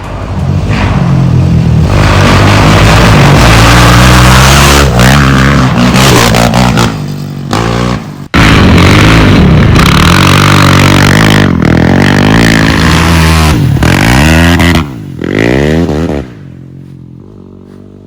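Rebuilt Yamaha YFZ450X quad's single-cylinder four-stroke engine running loud and being revved, its pitch rising and falling. It cuts off for an instant about eight seconds in and drops sharply in level near the end.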